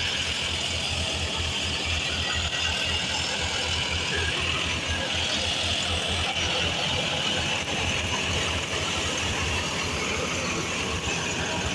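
Tractor diesel engine running steadily with a fast, even low chugging pulse, and a steady higher hiss over it.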